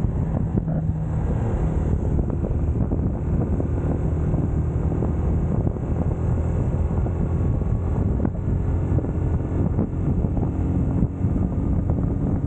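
UM Scrambler X motorcycle engine running at a steady cruise, with wind buffeting the camera microphone.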